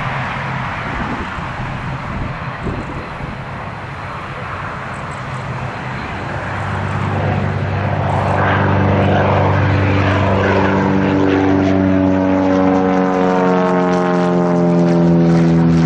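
Turboprop airliner's engines and propellers running, growing louder through the middle as the aircraft comes closer. Toward the end a buzzing propeller drone with a stack of tones comes through and slides slightly down in pitch as it goes past.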